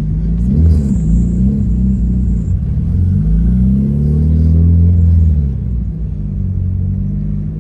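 Honda car engine pulling away: the revs rise and dip briefly about half a second in, then climb in one long pull from about three seconds and fall away near six seconds.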